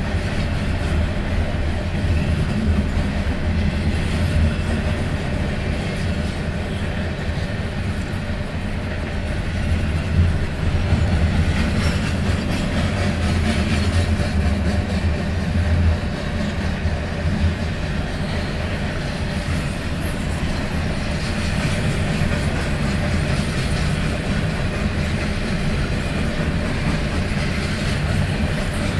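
Pan Am Railways freight train's cars rolling past steadily, a low rumble of steel wheels on rail.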